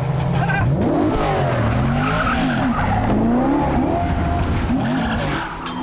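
BMW M3 sedan's engine revving hard, its pitch sweeping up and down again and again with throttle and gear changes, with tyres squealing as the car slides through tight corners. The level dips briefly just before the end.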